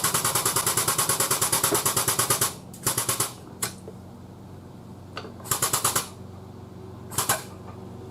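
The frame machine's pump works in bursts of rapid pulsing chatter, about ten pulses a second, as the door jamb is pulled. The longest burst lasts about two and a half seconds, and shorter ones follow about three, five and a half and seven seconds in, over a steady low hum.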